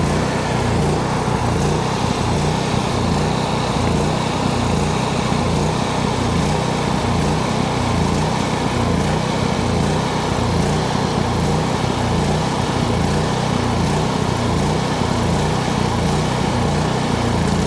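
Small gasoline engine of a portable generator running steadily with its fuel lever shut, burning off the last fuel in the carburetor before it stops.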